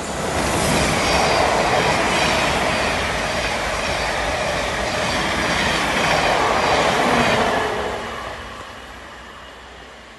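Electric multiple-unit passenger train passing close at speed: a steady rush of wheels on rails with a faint regular clatter, building within the first second, holding for about seven seconds, then fading away.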